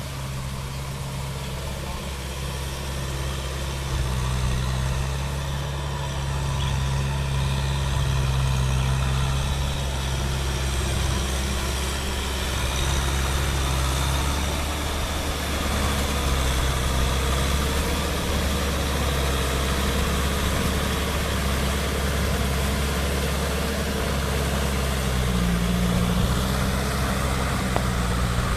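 Kubota M6040 tractor's four-cylinder diesel engine running steadily, a little louder from about four seconds in.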